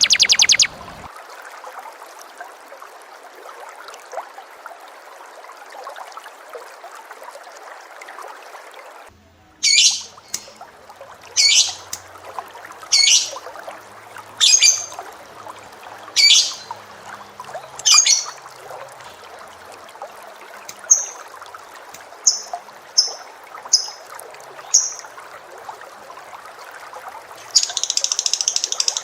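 Caged lovebird and canary calls from a bird training recording: a fast trill breaks off in the first second, then after a pause of faint hiss come seven loud, sharp chirps that drop in pitch, about one every second and a half, followed by a few short high peeps. A fast dense trill starts again near the end.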